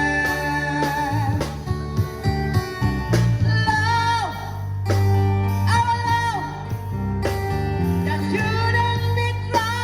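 A man singing long held notes that waver and fall away at their ends, over guitar and bass band accompaniment.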